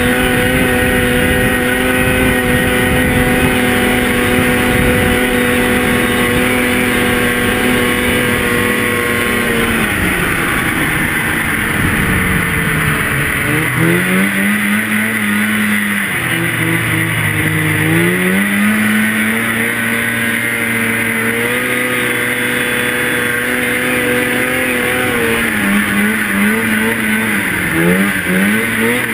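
Two-stroke snowmobile engine held at steady high revs for about ten seconds, then throttled off so the pitch drops, and revving up and down for the rest, with quick throttle blips near the end.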